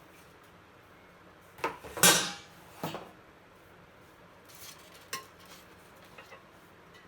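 Microwave oven accessories clattering as they are handled: a few sharp knocks, the loudest about two seconds in with a short ring, and a lighter clink with a brief ring about five seconds in.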